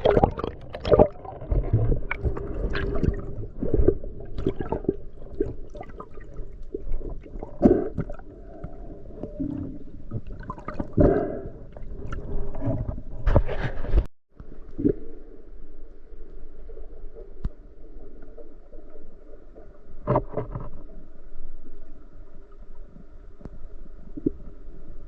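Water sloshing and gurgling around the camera, with irregular knocks and splashes. About halfway through the sound cuts off abruptly, then gives way to a quieter steady hum with a few more knocks.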